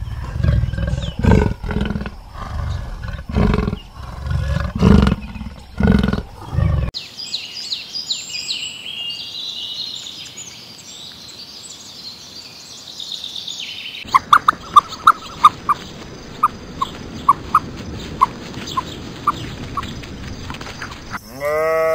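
Deep rumbling big-cat growls, repeating about once a second for the first seven seconds. Then small birds chirping. Then a run of short, loud peeps from ostrich chicks, and a sheep bleats near the end.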